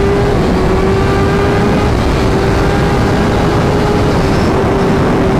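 Kawasaki ZX-10R's inline-four engine running hard on track, its pitch rising slightly and then holding nearly steady, with wind rushing over the microphone.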